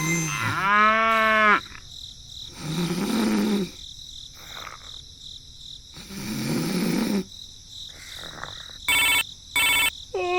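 A rooster crowing, then two low, rough animal calls a few seconds apart, then two short loud bursts near the end.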